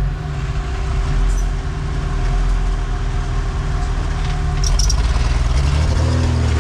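Engine of an off-road 4x4 competition truck running under load as it crawls through an obstacle; it gets louder about two-thirds of the way in.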